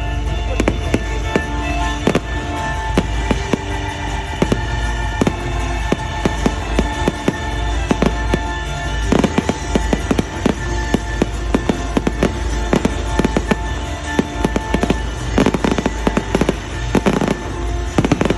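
Fireworks going off in quick succession, many sharp bangs and crackles, with a thicker cluster of bangs near the end, over music with sustained tones.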